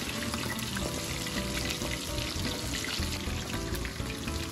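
Flour-coated chicken drumsticks shallow-frying in a pan of oil: a steady sizzle with fine crackles, under quiet background music.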